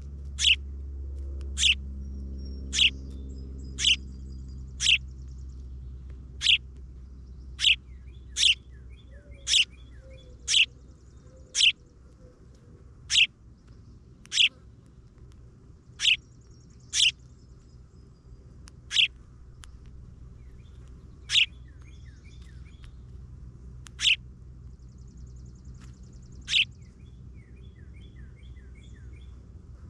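A songbird giving one short, sharp, high chirp over and over, about once a second with uneven gaps, with faint twittering between the chirps and a low steady rumble beneath.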